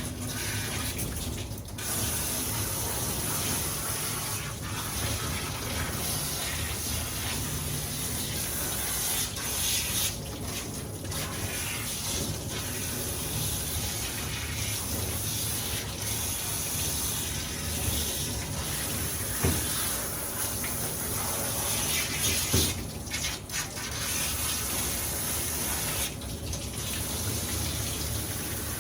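Water running from a tap into a sink, a steady rush broken briefly a few times as the stream is interrupted.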